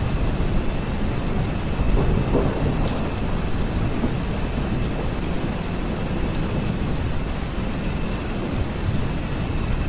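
Steady rain falling with a continuous low rumble of thunder underneath.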